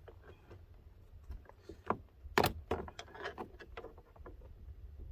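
Plastic interior door trim being worked and pressed back into its clips: a run of irregular clicks and knocks, the loudest about two and a half seconds in.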